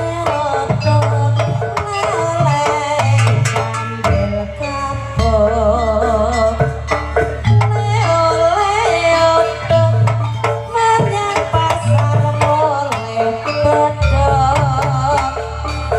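Live jaranan kuda lumping ensemble music: hand drums beating a steady, repeating pattern under a wavering melody.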